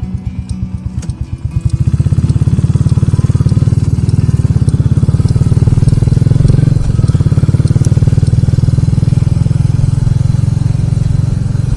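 Motorcycle engine running under way, its closely spaced firing pulses clearly audible; it gets louder about two seconds in as the throttle opens, then holds a steady pull.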